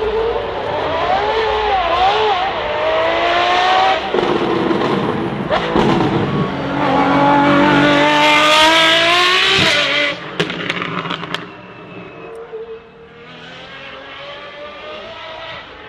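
Apollo Intensa Emozione's naturally aspirated V12 revving at the start line, then launching and accelerating hard with rising pitch through the gears. It is loudest as the car passes about 8 to 9 seconds in, drops off sharply a second later and fades away up the course.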